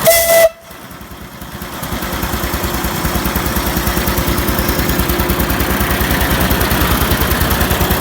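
Modified Kohler pump-jack engine running an air compressor, with a steady beat of about nine firing pulses a second. Right at the start there is a short, loud whistle-like tone lasting about half a second. The sound then drops away suddenly and builds back gradually over the following seconds.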